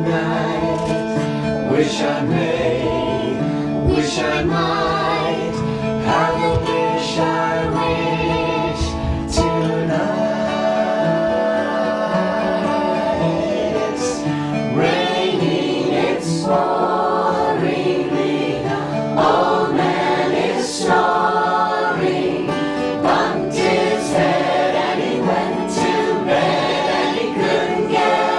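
Small group of voices singing a folk song together in harmony, accompanied by acoustic guitar.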